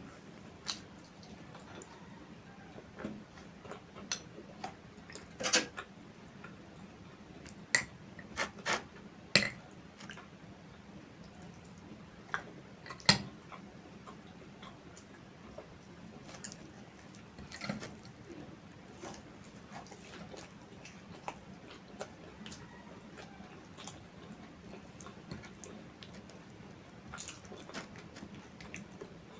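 Close-miked eating sounds: scattered wet mouth clicks and chewing, with a handful of sharper, louder clicks in the middle stretch.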